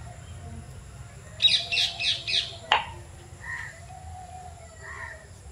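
Bird calling: a rapid run of about four loud chirps, followed by a single sharp click, then fainter calls later on.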